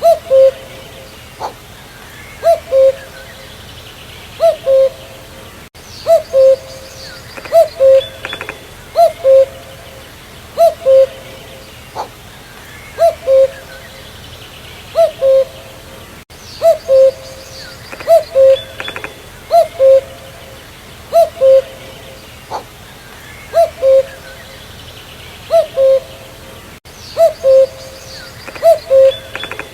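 Common cuckoo calling its two-note "cu-ckoo", the second note lower than the first, repeated every couple of seconds. Faint twittering of other birds comes in a few times.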